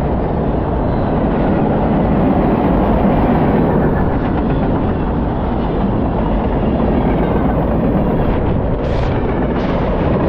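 Freight train cars rolling past close by: steady noise of steel wheels running over the rails, with some clickety-clack.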